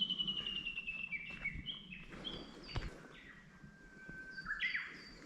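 Wild songbirds singing outdoors: clear whistled notes that slide and step downward in pitch, with a second bird's shorter, higher notes overlapping.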